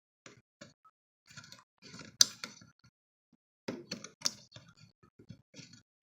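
Irregular clicks and light knocks of hard objects being handled, with one sharp click about two seconds in and a busier cluster near four seconds.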